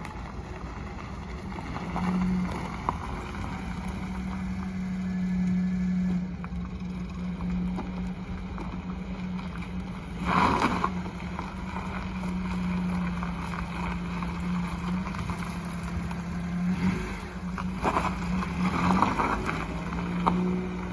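Mitsubishi Minicab kei truck's engine running with a steady hum, broken by a louder rushing burst about halfway through and a few more near the end.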